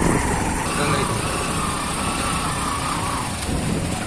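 Motorcycle engine running steadily with a low rumble while riding off-road.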